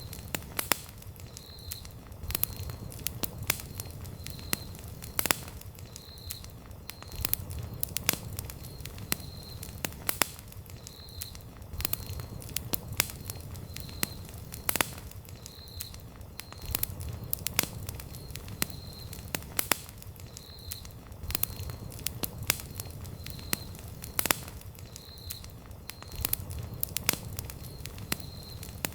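Wood campfire burning, crackling with frequent sharp, irregular pops and snaps over a low, steady rumble.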